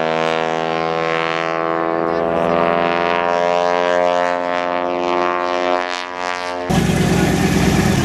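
Propeller airplane's engine droning steadily at a strong, even pitch that creeps slightly upward. Near the end it cuts off abruptly to a rougher, noisier engine sound, like an engine idling.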